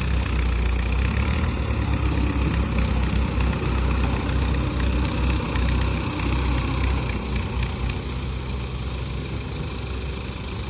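Mahindra 575 DI tractor's diesel engine running steadily with a deep engine note, easing off slightly in the last few seconds.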